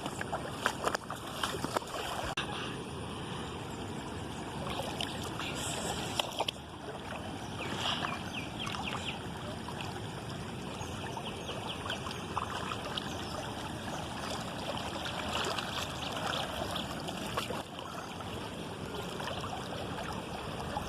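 Running water flowing and splashing like a stream, a steady rush with fine bubbling detail and a few sudden shifts in level.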